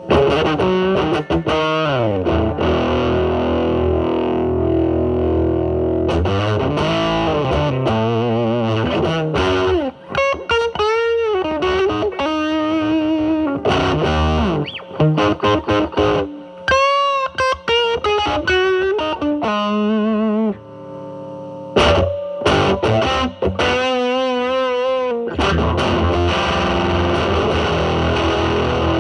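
Electric guitar, a Telecaster with single-coil pickups, played through a silicon-transistor Mosrite Fuzzrite clone into a Marshall Valvestate's drive channel: fuzzy, distorted lead lines with held notes, bends and wide vibrato. From about five seconds in, the fuzz knob is at twelve o'clock.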